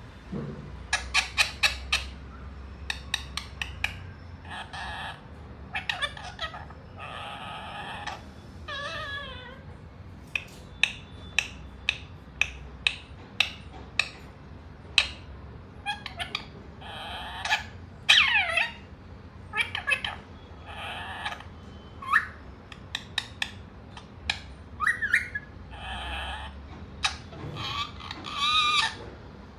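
Pet Indian green parrot (rose-ringed parakeet) calling: a long run of short sharp chirps and clicks, with some quick gliding calls and a few harsher screechy squawks.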